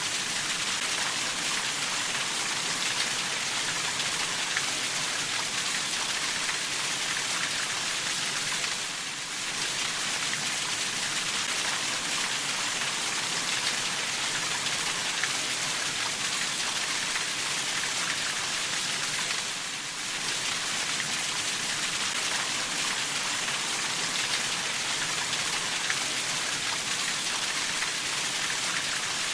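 Steady rainfall, an even hiss of many drops on a surface, with a brief slight lull about a third and two-thirds of the way through.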